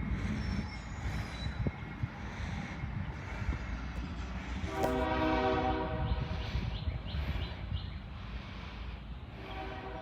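CSX locomotive horn sounding a blast of a little over a second, several tones at once, about five seconds in, and starting another near the end, over a steady low rumble.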